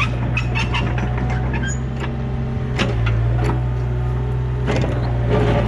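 Yanmar mini excavator's diesel engine running steadily, with several sharp clanks on top.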